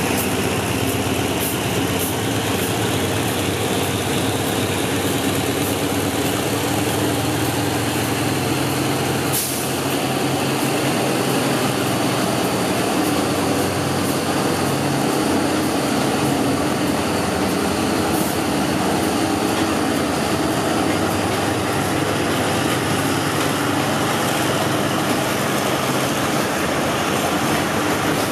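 A diesel locomotive's engine runs steadily as it passes close by, hauling a train of passenger coaches. After about the halfway point the engine sound fades and the coaches roll on past.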